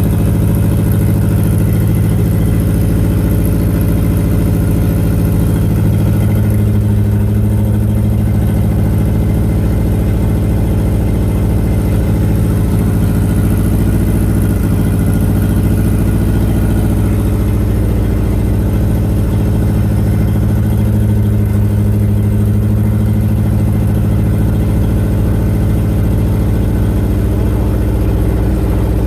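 1987 Nissan 200SX (S12 Silvia) engine idling steadily, its idle sagging slightly twice before recovering.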